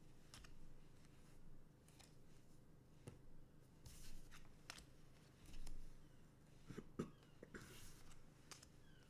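Faint rustling and scattered light clicks of trading card packs and cards being handled, with a soft low hum underneath.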